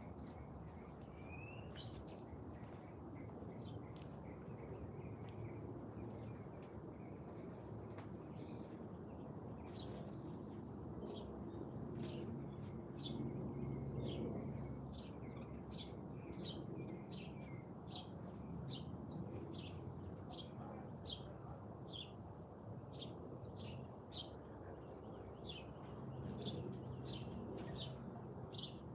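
Small songbird chirping: short high chirps, scattered at first and then coming steadily about once or twice a second from about halfway through, over a steady low background rumble.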